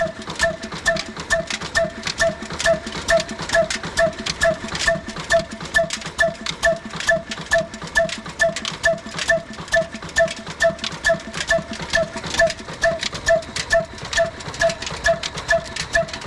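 Old black desi diesel engine, the slow-running single-cylinder kind, running steadily while driving a flour mill (aata chakki), with an even, rhythmic beat of about two knocks a second.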